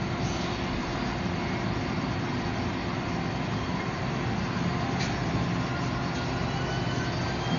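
Bladesmithing shop equipment running steadily, a constant drone with a low hum and no change in pitch.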